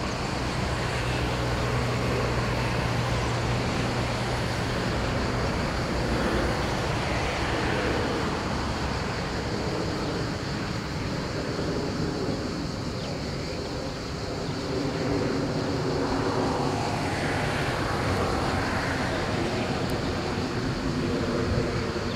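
Jet airliner engines running, a steady mix of rumble and whine that sweeps in tone twice as aircraft move past.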